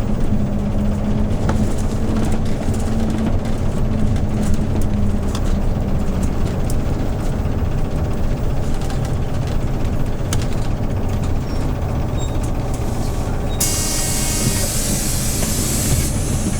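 Hyundai New Super Aero City CNG city bus engine running under way, a steady low drone with a humming tone that fades after about five seconds. Near the end a loud hiss of compressed air starts suddenly and lasts about two seconds.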